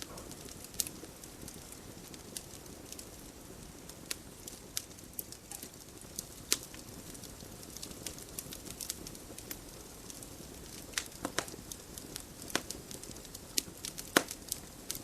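Wood fire burning in a fireplace: a steady low hiss with frequent sharp, irregular crackles and pops, a few louder snaps among them.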